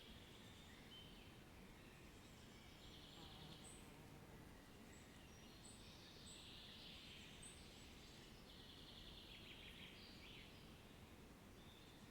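Faint birdsong: a few birds trilling and chirping now and then over a steady low background hiss.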